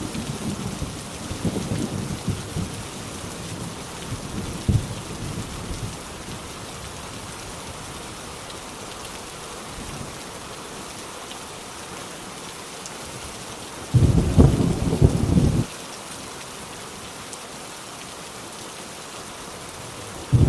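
Heavy rain falling on a rusty tin roof, a steady hiss, with thunder rumbling and fading away over the first few seconds. About fourteen seconds in, a loud low burst of thunder lasts under two seconds and cuts off suddenly.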